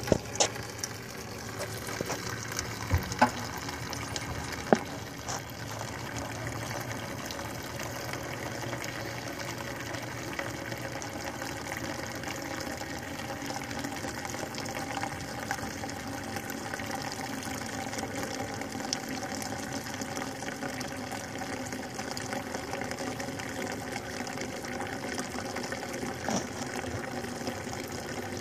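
Gasoline-thinned engine oil pouring steadily out of a Honda engine's oil drain hole, with a few sharp knocks in the first five seconds. The crankcase is full of gas because a stuck-open carburettor float let the gravity-fed tank drain into the block.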